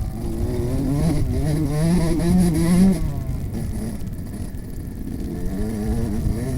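Motocross bike engine revving hard, its pitch climbing for about three seconds, dropping sharply as the throttle is shut, then climbing again near the end.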